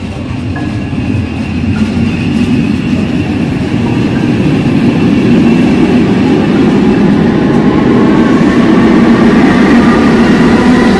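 SNCB passenger train pulling in alongside a station platform, its rumble and wheel noise growing steadily louder as the carriages pass. Toward the end a few steady whining tones rise above the rumble.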